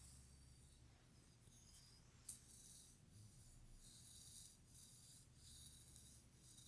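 Quiet hair play: soft, scratchy strokes through hair, repeating about every half second, with a single sharp click a little over two seconds in.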